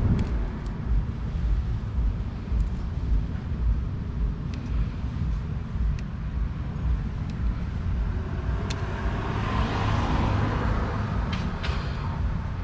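Steady low rumble of outdoor background noise, with a few sharp light clicks scattered through it and a swell of hissing noise around ten seconds in.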